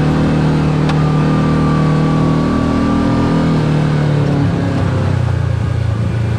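Side-by-side UTV engine running steadily, then easing to a lower pitch about halfway through as the vehicle slows, with a faint thin whine over it for a few seconds.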